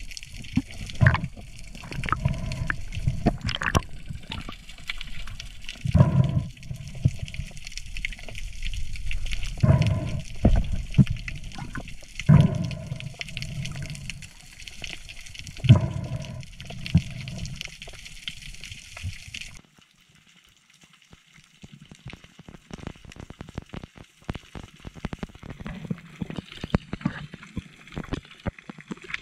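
Moving water with many sharp clicks and a heavy low rumble. About two-thirds of the way through it cuts off abruptly to a much quieter stretch of scattered faint clicks.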